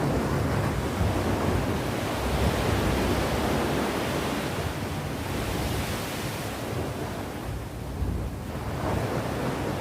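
Sea waves breaking and washing on the shore, a continuous surf noise that swells and eases slowly, with one wave peaking about halfway through and another building near the end. Some wind on the microphone.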